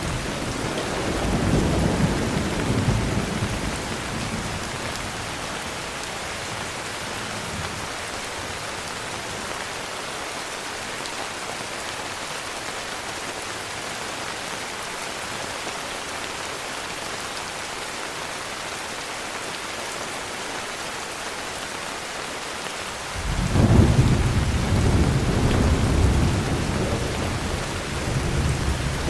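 Heavy rain falling steadily, with rumbles of thunder: one fading away in the first few seconds, and another breaking in suddenly near the end and rolling on.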